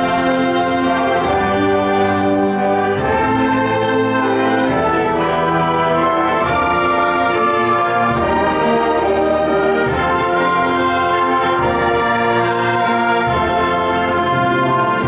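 High school concert band playing sustained chords, with the brass prominent.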